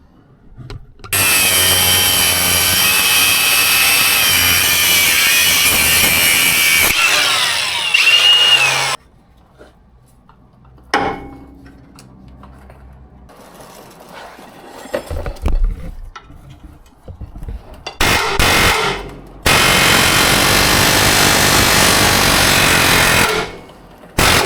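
Reciprocating saw cutting through steel bracket metal in two long runs, the first about eight seconds long starting a second in, the second about four seconds long near the end after a short burst. Near the end of the first run the motor's pitch slides before it stops.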